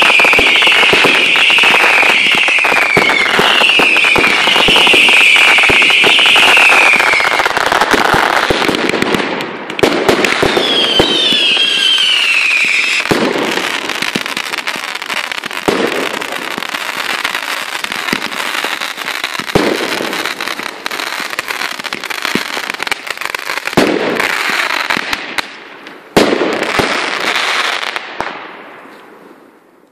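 Fireworks going off: dense crackling with a quick run of falling whistles for the first seven seconds, another whistle about ten seconds in, then single bangs every few seconds. The sound fades out near the end.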